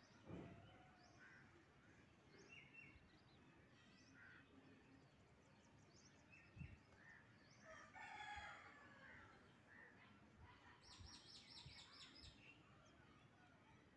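Faint birds calling: scattered short high chirps, a louder, lower call lasting under a second about eight seconds in, and a fast trill of high repeated notes around eleven seconds. A few soft low thumps.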